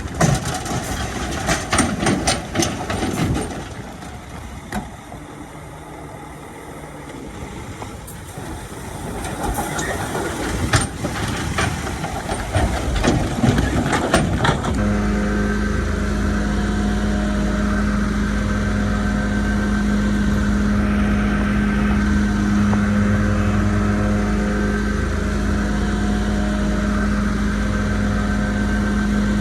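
Bulldozer at work. Heavy knocks and clanks from its tracks and the rock come first. About halfway through, this gives way abruptly to the steady drone of its diesel engine.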